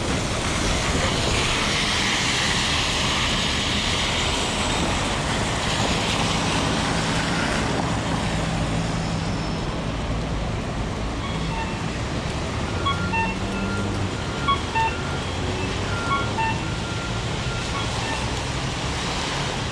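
Heavy rain and city traffic on wet streets. A vehicle hisses past on the wet road in the first few seconds, then a low engine hum runs under the rain for several seconds. In the second half a run of short, clear tones at several pitches sounds.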